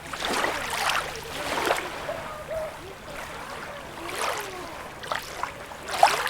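Small sea waves lapping and splashing at the water's edge, in irregular surges with gurgling between them.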